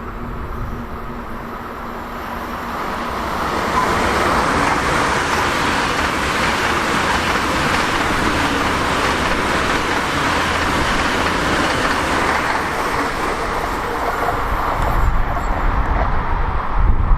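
Train passing: a steady rushing noise that swells over the first few seconds and then holds.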